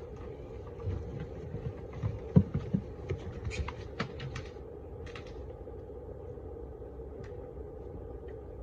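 Honeybee colony buzzing as a steady hum, with scattered knocks and clicks in the first half from the removal work.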